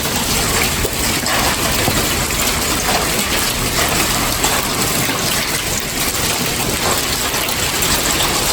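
Hailstorm: large hailstones, described as golf-ball sized, pelting down in a dense, steady rush of many small impacts.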